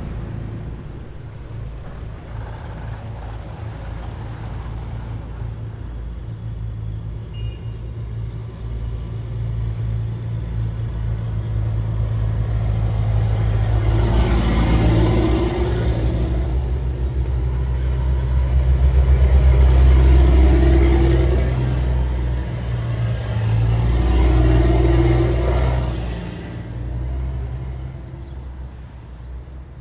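A column of heavy military vehicles driving past, their engines a deep, steady drone. The sound builds through the second half as three vehicles pass close in turn, then fades near the end.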